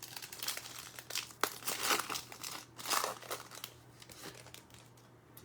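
A trading-card pack wrapper crinkling in irregular bursts as it is torn open and handled, loudest about two to three seconds in.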